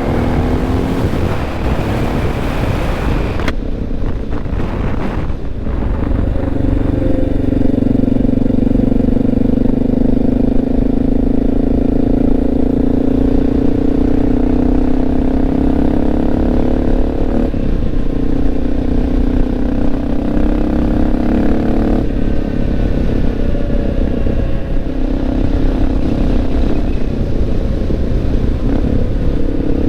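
Honda XR650L single-cylinder four-stroke engine running steadily under way, its note briefly breaking twice in the second half. A hiss on top stops suddenly about three and a half seconds in.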